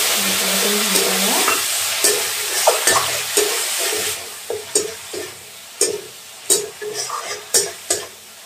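Prawn curry masala sizzling hard in a metal kadai as liquid is poured in and stirred, the loud hiss easing off about four seconds in. After that a metal spatula scrapes and taps against the pan about once or twice a second over a lighter sizzle.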